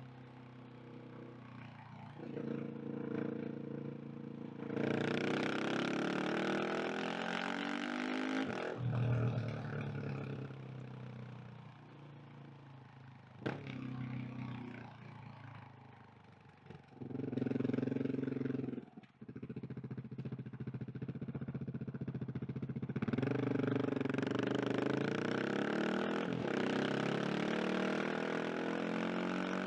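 KTM 690 SMC R single-cylinder engine heard from the rider's seat, pulling hard with rising pitch a few seconds in, shutting off sharply, running quieter off the throttle, giving a short burst, then pulling up again through the last part.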